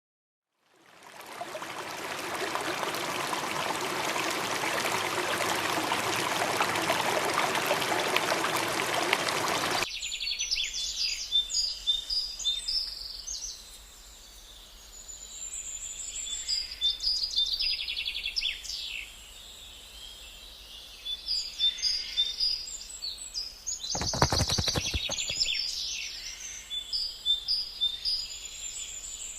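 A steady rush of water for about the first ten seconds, cutting off suddenly into birdsong: many short, high chirps and calls. A brief noisy burst comes about two-thirds of the way through the birdsong.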